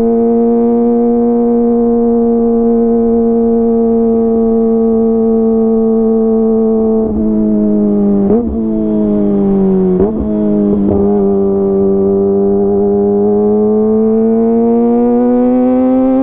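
Kawasaki ZX-25R inline-four engine through a DX Generation GPR full-system aftermarket exhaust, heard while riding. The high-revving note holds steady for several seconds. It breaks briefly a few times around the middle, as at gear changes, then drops in pitch and climbs slowly again as the bike speeds up.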